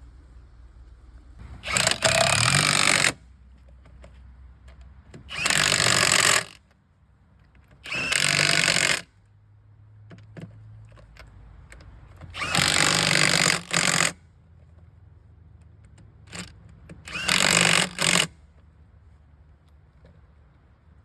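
A power tool, most likely an impact wrench doing up a tractor's wheel nuts, running in five short bursts of a second or so each, a few seconds apart.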